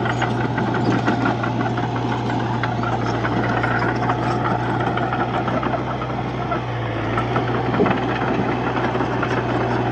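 D31-P bulldozer's diesel engine running steadily under load, with a constant low hum and a dense mechanical rattle. The engine note dips briefly about two-thirds of the way through.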